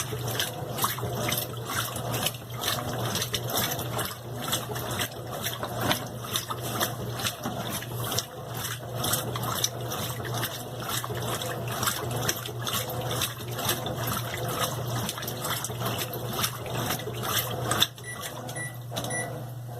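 Water running into the tub of a Brastemp BWQ 24 washing machine as it fills, over a steady low hum. Near the end the water noise drops away and three short high beeps sound.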